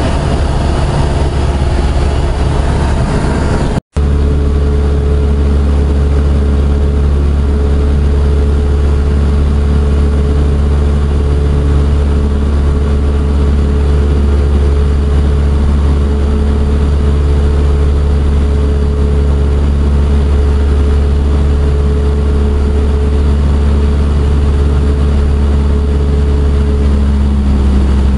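Cessna 172SP's four-cylinder Lycoming engine and propeller droning steadily, heard inside the cabin. The sound cuts out for an instant about four seconds in, and its note shifts slightly near the end.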